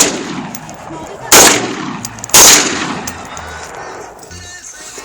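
Rifle shots: two sharp cracks about a second apart, each followed by an echo that dies away over about a second. Another shot goes off right at the end, and the fading echo of one fired just before opens the stretch.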